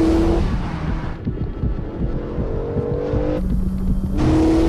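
Peugeot RCZ R's turbocharged four-cylinder engine accelerating hard under load, its pitch climbing. About three and a half seconds in the note drops abruptly to a lower pitch, then climbs again.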